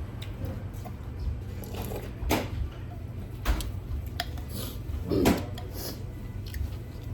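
A few knocks and clatters of dishes and cutlery, three of them louder, over a steady low hum.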